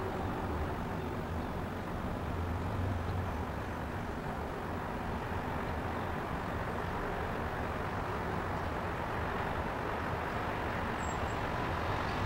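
Steady low rumble of outdoor city background noise, like traffic, with no distinct events.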